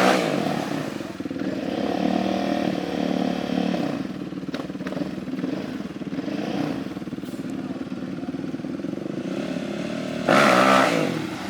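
Small off-road vehicle engine running, its pitch wavering with the throttle. It surges louder twice, once at the start and again about ten seconds in.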